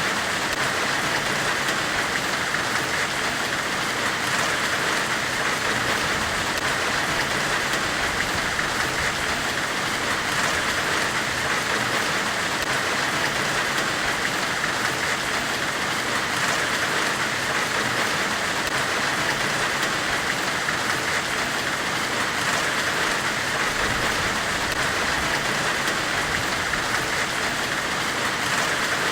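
Steady, unbroken white-noise hiss, brightest in the upper-middle range and rain-like, with no separate strikes or events: the forge-weld-themed hiss of an ambient noise track.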